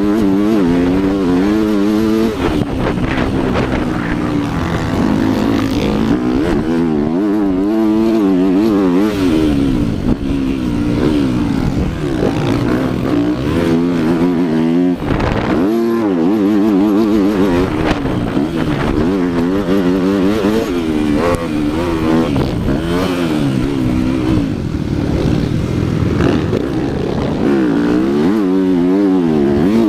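Motocross dirt bike engine revving hard, its pitch rising and falling over and over as the throttle opens and closes, with brief drops in between.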